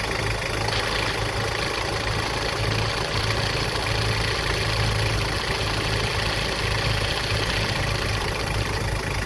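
Toyota Prado 120 engine idling steadily, with a faint high tone that stops less than a second in.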